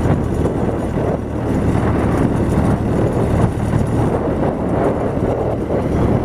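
New Holland LB75 backhoe loader's diesel engine running steadily.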